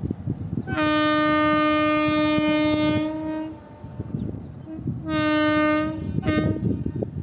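Indian Railways WAP-4 electric locomotive's horn sounding three times: one long blast, a shorter one, then a very short toot. Steady clattering of train wheels on the rails runs underneath.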